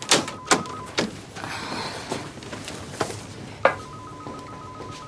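An electronic trilling ring made of two high tones sounds twice, the rings about three seconds apart. Between them come several sharp knocks, the loudest sounds here, and a short shuffling rustle.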